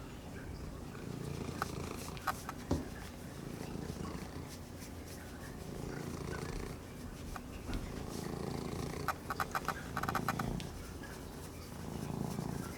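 Domestic kitten purring close up while being petted, the rumble swelling and fading with each breath every couple of seconds. A cluster of light clicks comes about nine seconds in.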